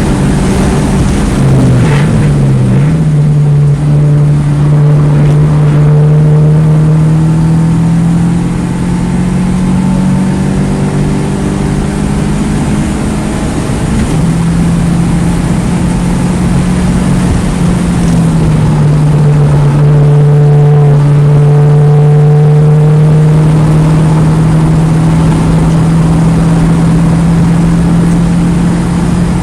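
2009 Mini Cooper S's turbocharged 1.6-litre four-cylinder engine running hard at speed, heard from inside the car with road and wind noise. The engine note drops sharply about two seconds in and again a little past halfway, climbing slowly in between.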